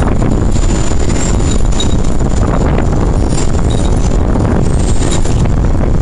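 Thunderstorm wind and rain, a loud steady rumble and hiss with the wind buffeting the microphone.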